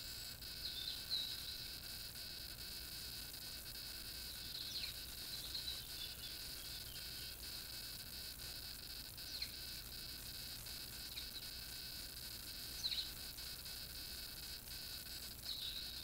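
Brief high chirps from small garden birds, one every few seconds, over a steady high-pitched whine and low hum.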